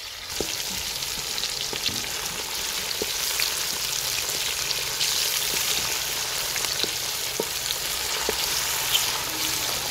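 Chopped green chillies, tomatoes and browned onions frying in hot oil in an aluminium pot: a steady sizzle that jumps up right at the start, with the wooden spatula scraping and tapping the pot now and then as it stirs.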